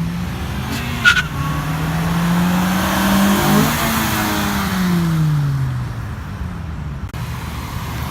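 A car drives past, its engine note rising as it accelerates and then falling away as it goes by, with tyre noise loudest as it passes. A brief sharp chirp comes about a second in.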